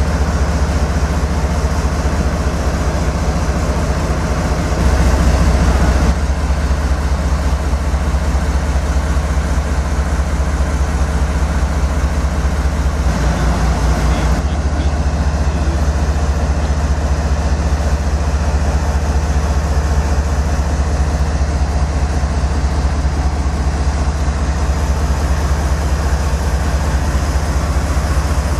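Idling diesel engine of the Norfolk Southern 8100 locomotive, a GE ES44AC, running with a steady, deep, low rumble that swells slightly about five seconds in.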